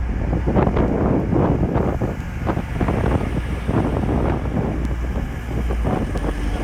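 Wind buffeting the microphone in irregular gusts, over the low, steady rumble of a TransPennine Express diesel multiple unit pulling out of the station.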